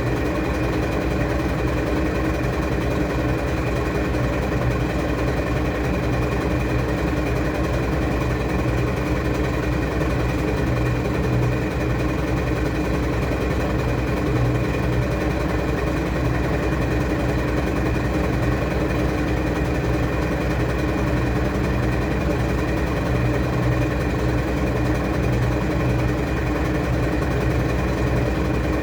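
Washing machine running, its motor giving a steady hum with a faint pulsing that does not change.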